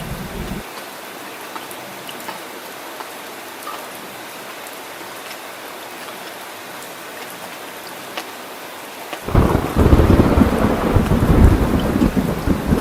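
Steady heavy rain with scattered drips. A deep thunder rumble cuts off abruptly just under a second in, and a louder rumble of thunder breaks in suddenly about nine seconds in and keeps rolling.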